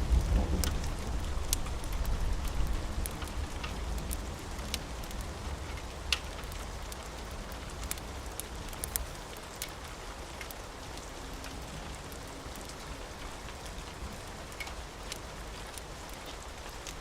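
Steady rain hissing, with a low thunder rumble that fades out over the first half. Scattered sharp crackles and pops of a wood fire sound through it.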